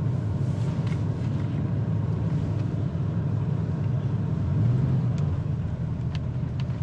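A vehicle driving along a road: a steady low rumble of engine and tyres, with a few sharp ticks in the last couple of seconds.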